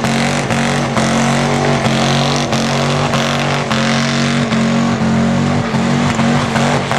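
V8 tow truck engine held at steady high revs during a burnout, with a dense hiss over it.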